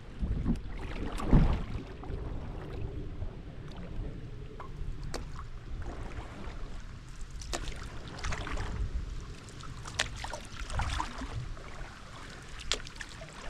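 Paddle strokes splashing in the river, with a steady low rumble of wind on the microphone and a louder low thump about a second in.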